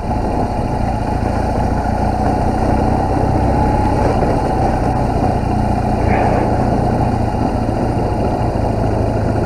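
BMW motorcycle engine running steadily, a constant low rumble at an even level.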